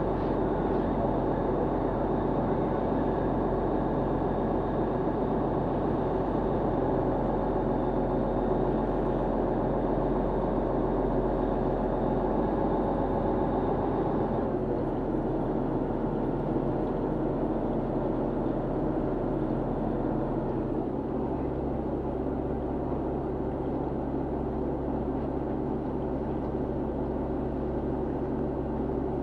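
Fishing boat's engine running steadily with water and hull noise; its sound changes about halfway through and again about two-thirds in, as the engine speed changes.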